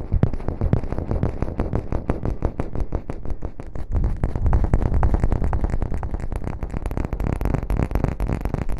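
ASMR rustling and scrubbing: a dense, continuous run of rapid crackles.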